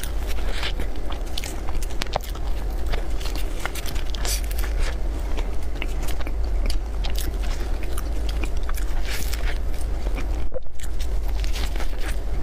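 Close-miked biting and chewing of cream puffs, with many small crunches and clicks over a steady low hum. The sound drops out for a moment about ten and a half seconds in.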